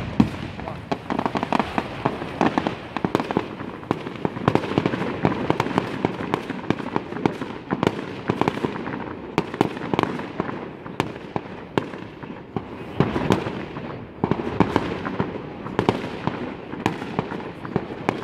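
Aerial firework shells bursting: a continuous run of sharp bangs and crackles in quick succession, several a second, with louder clusters near the middle and later on.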